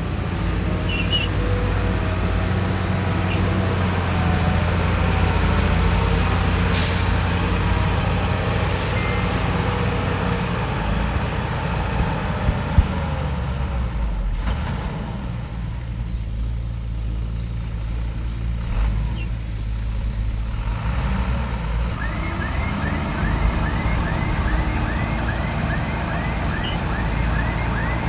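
Heavy diesel machinery engine running steadily under work. There is a brief hiss about seven seconds in and a sharp click near the middle. In the last third a short rising chirp repeats about twice a second.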